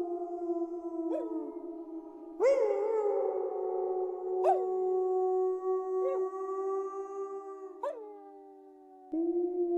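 Several wolves howling together in long, overlapping howls that slide slowly downward, with a new voice swooping up into its howl every second or two. The loudest entry comes about two and a half seconds in.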